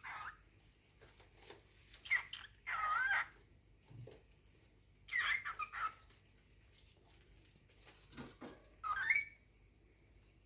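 Cockatiel calling and whistling in short separate phrases, about four of them spaced a couple of seconds apart, some gliding in pitch and the last one rising.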